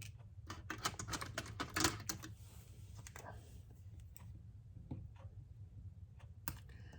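Small clicks and taps of fingernails picking at a small paper embellishment stuck to a cardstock background, with a short paper rustle about halfway through. The clicking is densest in the first couple of seconds, then thins out to a few faint ticks.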